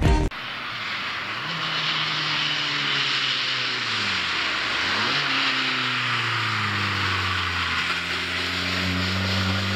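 VW TDI turbodiesel engine running through a turbo-back Edel01 aftermarket exhaust. Its drone drops in pitch to a low point about halfway through, then climbs again and holds steady, over a constant hiss.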